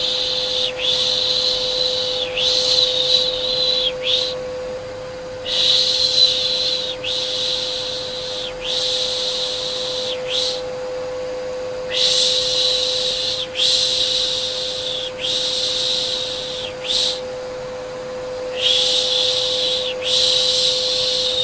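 Rhythmic 'shh, shh' baby-soothing shushing (Turkish 'piş piş'), each hiss about a second and a half long, in runs of three or four with short pauses between runs. A steady vacuum-cleaner hum runs underneath.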